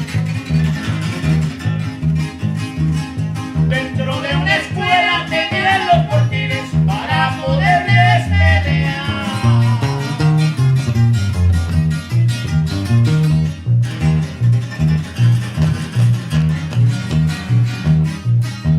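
A norteña band playing live: plucked guitars over a steady repeating bass line, with a melodic lead line rising above it from about four to nine seconds in.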